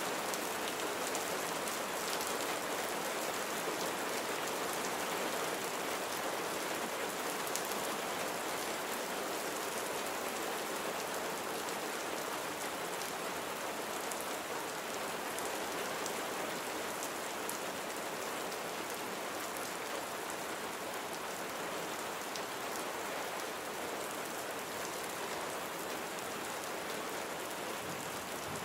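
Steady rain falling: an even hiss with individual drops ticking through it, unchanging throughout.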